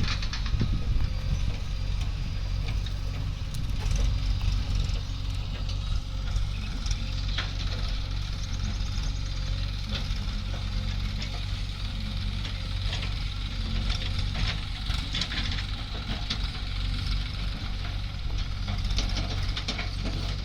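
Diesel engines of a JCB backhoe loader and a tractor running steadily, with scattered knocks and clatter as the machines work.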